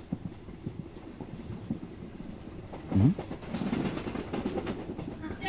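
Passenger train running, its wheels clicking irregularly over the rail joints with a low rumble. About three seconds in there is a brief, loud rising sound, and the rumble is louder after it.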